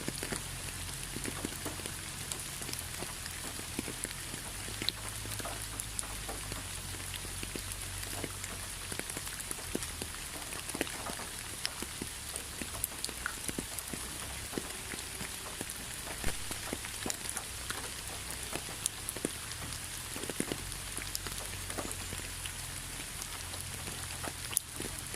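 Rain falling, a steady patter with many separate drops tapping sharply on a surface, over a low steady hum.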